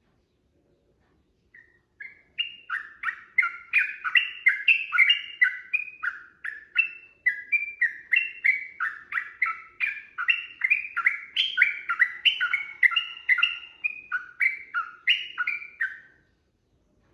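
Yellow-vented bulbul (trucukan) singing a long, rapid run of bubbly, warbling notes, several a second, starting about two seconds in and stopping shortly before the end.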